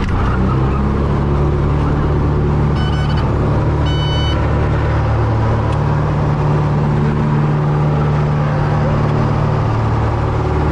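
Steady drone of a light aircraft's engine and propeller on a landing approach, with two short electronic beeps about three and four seconds in.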